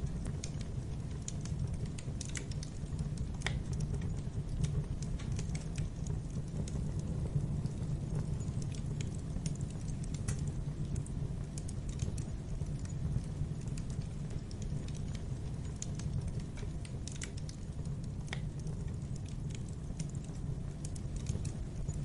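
Wood fire burning in a fireplace: a steady low rumble with scattered irregular crackles and pops.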